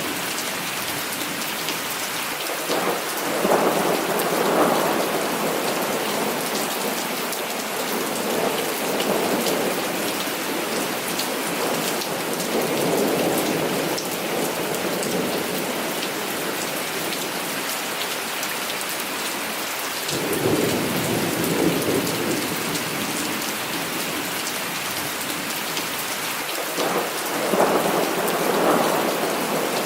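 Heavy rain falling steadily, with thunder rolling in again and again as several separate rumbles that swell and fade over the rain.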